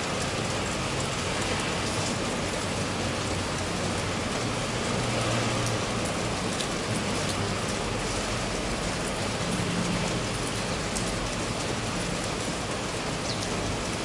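Steady rain falling and spattering on wet stone paving, with a few faint drip ticks.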